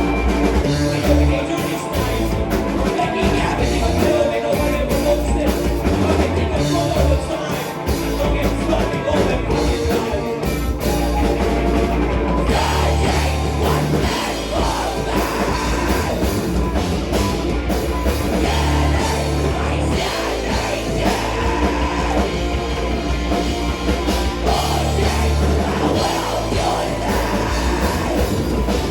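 Rock band playing a song live, with a drum kit and strong bass notes, and singing at times.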